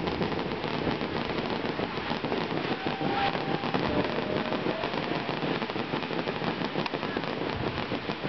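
Fireworks crackling: a dense, steady patter of small pops from glittering aerial shells, with no single big bang.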